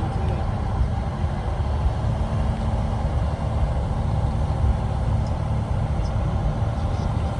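Truck engine running with a low, uneven rumble.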